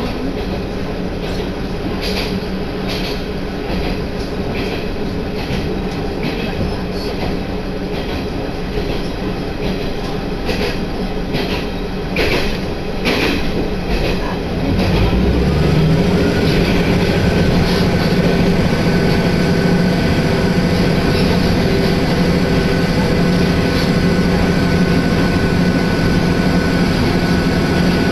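Interior sound of a diesel railcar running on the Tenryū Hamanako line: steady rumble and engine hum, with the wheels clicking over rail joints. About halfway through it grows louder and a steady whine comes in, rising briefly and then holding.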